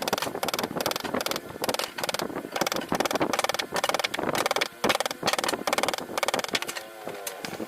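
A mallet striking a carving chisel into sheesham wood in quick repeated taps, several a second, with brief pauses between runs.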